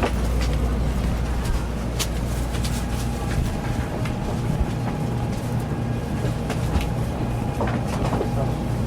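Inside a Shinkansen passenger car: the steady low rumble of the train, with scattered light clicks and knocks.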